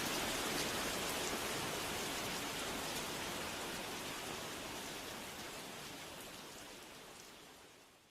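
Steady rain falling, an even hiss of many drops, fading out gradually over the last few seconds to silence as the recording ends.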